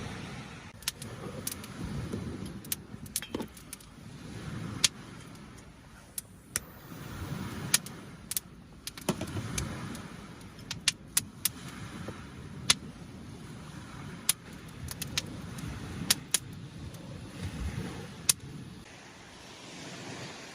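Irregular sharp clicks and clinks of camping gear being handled, some close together, over a background of small waves lapping at the shore.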